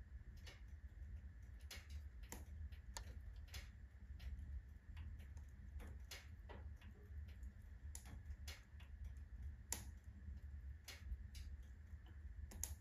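Firewood burning in a wood stove's full firebox, giving irregular sharp crackles and pops, about one or two a second, over a steady low rumble.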